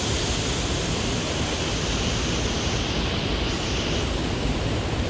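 Steady, loud rushing of the Salto La Leona waterfall, a constant roar of falling water.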